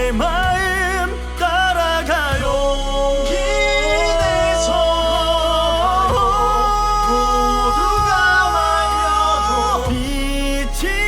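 A song from a children's stage musical: a solo voice sings long held notes with vibrato over an orchestral-pop backing track with a steady beat.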